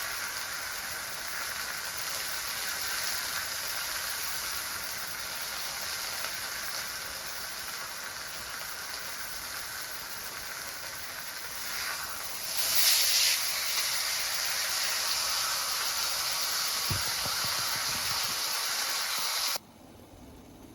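Pork steak sizzling in a pan over a wood fire: a steady hiss that swells briefly a little past the middle and cuts off abruptly near the end.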